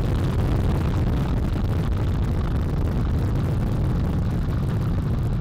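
NASA Space Launch System rocket thundering at liftoff: its four RS-25 core-stage engines and two solid rocket boosters firing together. A loud, steady, dense rumble, heaviest in the low end.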